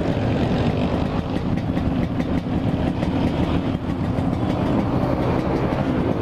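Yamaha RX-King's two-stroke single-cylinder engine with a loud, low-slung aftermarket exhaust, running steadily under way with no big revs.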